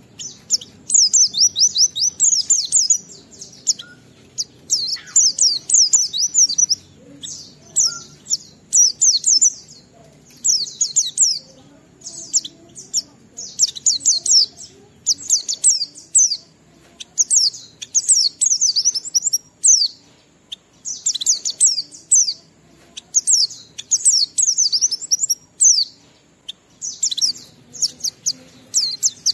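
White-eye (pleci) singing its fast, high twittering ngalas song, phrases of a second or two with short pauses between them.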